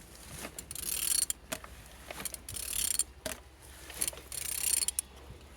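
Z18XER 1.8 four-cylinder petrol engine being turned over by hand with a ratchet wrench, ratcheting clicks and internal mechanical noise coming in three strokes about a second and a half apart. The engine turns freely, a sign it is not seized.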